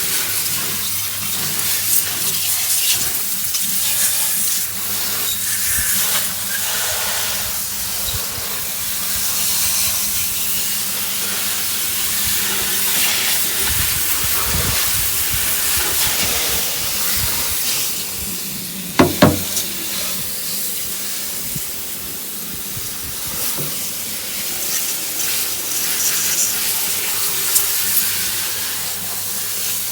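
Hose water spraying onto an engine bay, rinsing off degreaser, with a steady hiss. A low hum runs underneath, and there is one brief sharp knock about two-thirds of the way through.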